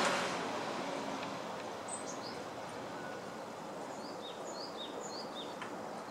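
A small bird singing: a quick run of high, falling notes about two seconds in, then three repeated falling double notes, over a steady outdoor hiss. A rushing noise fades away during the first second.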